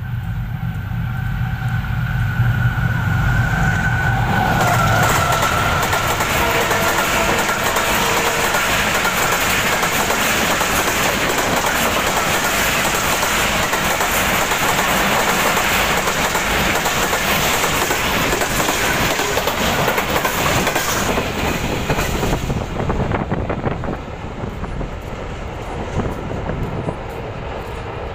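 A GEU-40 diesel-electric locomotive sounds its horn over its running engine as it approaches, the horn dropping in pitch as it passes about four to five seconds in. The express's coaches then rush past with wheels clattering over the rail joints, and the sound drops away near the end as the train recedes.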